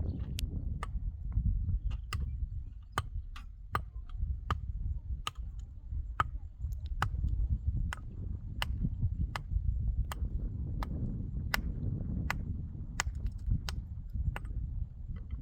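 Repeated sharp chopping strikes, evenly paced at about three every two seconds, over a steady low rumble.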